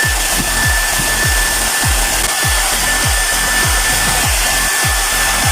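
Handheld hair dryer running on its high-speed cool setting: a steady rush of air with a thin high whine from the motor. Underneath it, a regular low thump repeats a few times a second.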